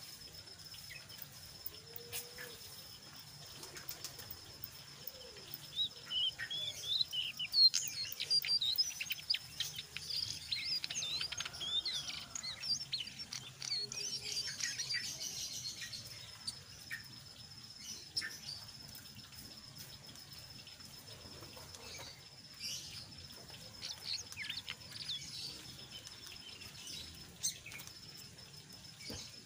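Jongkangan coklat (a brown bird known by that local name) calling in quick high chirps and chattering trills, thickest in the middle of the stretch and sparser toward the end, over a steady thin high whine.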